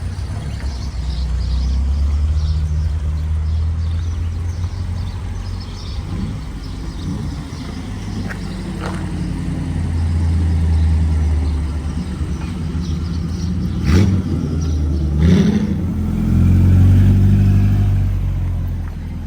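Car engines running as cars drive slowly past, a low rumble that swells and fades as they go by. A sharp knock comes about 14 seconds in, followed by a short rev.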